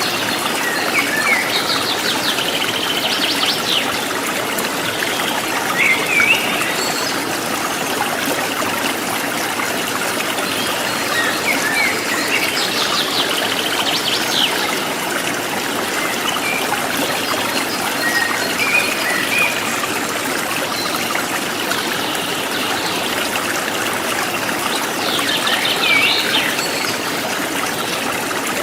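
A river flowing steadily over rocks, with birds chirping and trilling in short phrases every few seconds.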